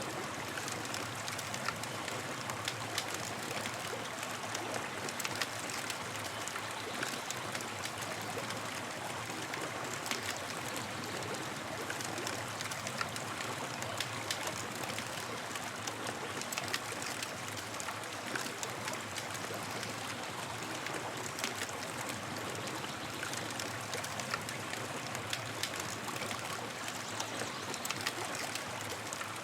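Wood campfire crackling, many small sharp pops over a steady hiss.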